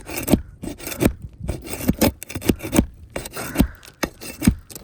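Hammer and flat bar working a stuck roofing nail out from under an asphalt shingle: a quick, irregular run of metal knocks with scraping against the shingle between them.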